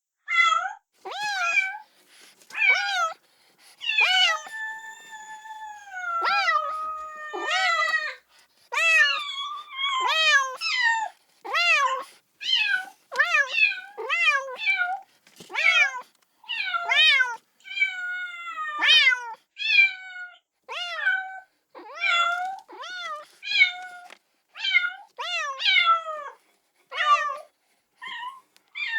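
A kitten meowing over and over, calling for its mother: short, high-pitched cries about once a second, with one longer drawn-out call about four seconds in.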